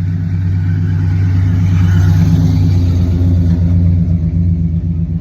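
A car's engine rumbling steadily at low revs as the car rolls up close, growing louder over the first couple of seconds.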